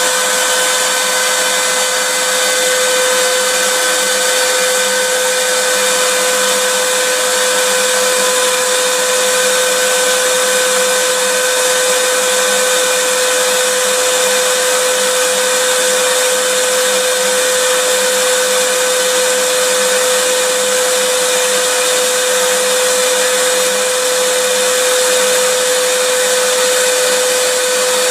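Vacuum cleaner running continuously at a loud, even level: a steady rushing hiss with a constant motor whine that never changes, played as white noise for lulling a baby to sleep.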